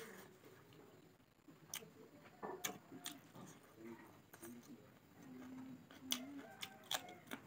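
Close-up eating sounds: a person chewing a mouthful of rice by hand, with scattered sharp wet mouth clicks and lip smacks, and a short low hum about five seconds in.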